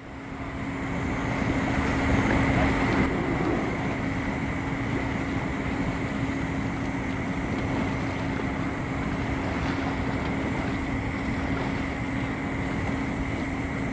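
Steady drone of a passing container ship's engine: a constant low hum over a rushing noise, with some wind on the microphone.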